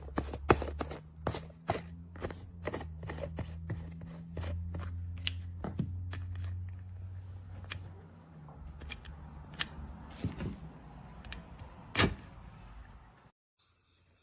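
Irregular clicks and knocks, about three a second at first and sparser later, over a low steady hum, with one sharp loud knock near the end before the sound cuts off abruptly.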